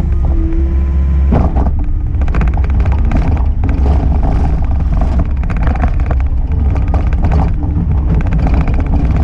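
A heavy engine running steadily, loud with a low drone and rapid even firing pulses.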